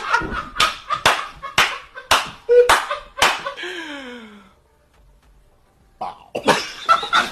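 A quick run of sharp smacks, about two a second for roughly three seconds, followed by a falling tone, a brief silence, and new sounds starting near the end.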